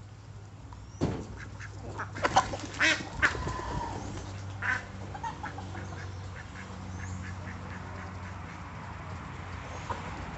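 Ducks quacking: a cluster of loud quacks about two to three seconds in and another near five seconds, over a steady low hum.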